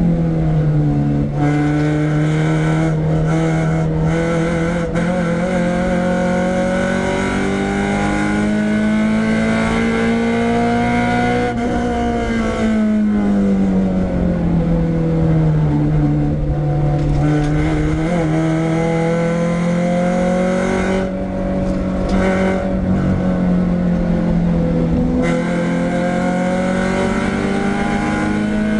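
Renault Clio 172's 2.0-litre four-cylinder engine running hard at high revs on track. The note climbs slowly, falls away about twelve seconds in, then climbs again.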